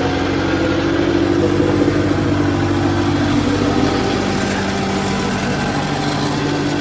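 Tractor engines running steadily under heavy load, pulling against each other in a tug-of-war, their pitch rising slightly a second or two in and then settling.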